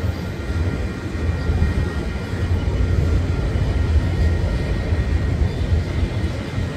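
Freight train of enclosed autorack cars rolling past: a steady low rumble of steel wheels on rail, with a faint steady high ring over it.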